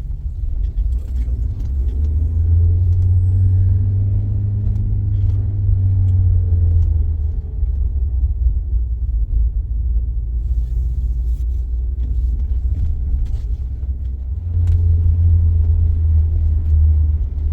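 Car driving: a low engine and road rumble that swells about two seconds in and again near the end, with faint engine tones rising and falling.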